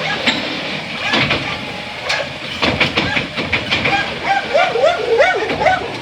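An Autocar Xpeditor garbage truck with a New Way Sidewinder side loader at work: a run of metal clanks and rattles over a hiss. A dog barks repeatedly near the end.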